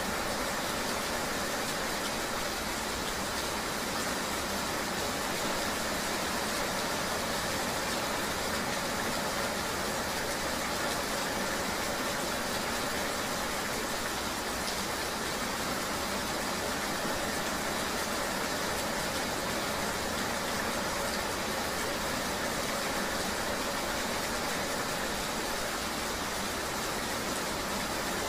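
Steady ambience of riding in the rain: an even rain-like hiss over a low, constant engine sound, with no separate events.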